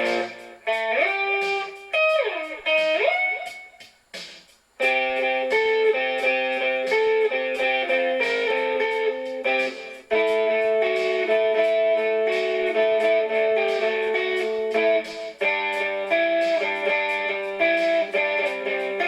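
Electric guitar playing, with a note that swoops down and back up about two seconds in, then held chords and melody notes over a steady beat.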